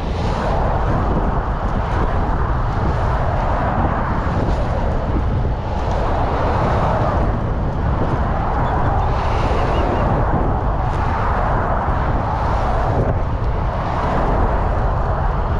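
Wind rumbling on a GoPro action camera's microphone during a bicycle ride, with road traffic passing alongside and swelling now and then as vehicles go by.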